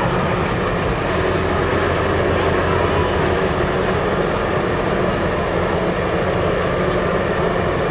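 Off-road 4x4's engine running steadily under load, with a constant low drone and a rush of noise.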